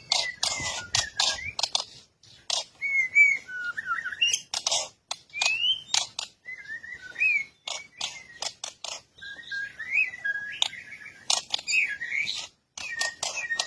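Bird calls: many short, sharp chips mixed with whistled notes that slide up and down, in rapid broken phrases.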